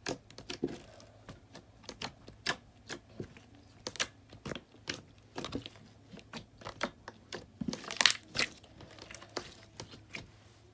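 Fluffy slime squished and kneaded by hand, giving a run of irregular small pops and clicks as air pockets burst, with a louder squelching stretch about eight seconds in.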